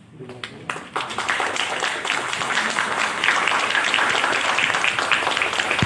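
Audience applause: a few scattered claps just after the start, swelling within about a second into dense clapping that holds steady.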